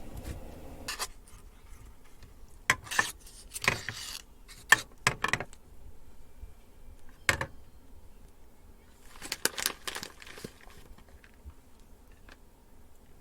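Clinks, clatters and rustles of cooking utensils, dishes and packaging being handled during food preparation, in irregular bunches with quiet gaps between.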